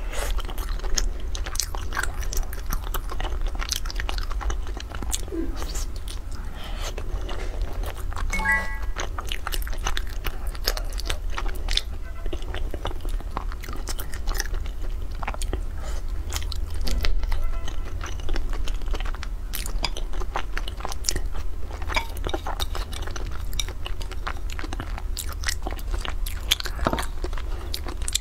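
A person chewing and biting soft, sauce-coated food, with many small wet mouth clicks over a low steady hum.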